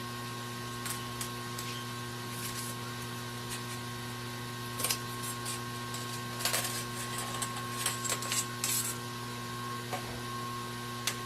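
Steady electrical hum from a bench appliance, with scattered light clicks and scrapes of small hand tools working on a laptop, most of them bunched in the second half.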